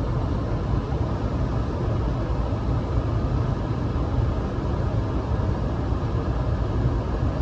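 Car engine idling while it warms up in deep cold, a steady low rumble with an even hiss over it.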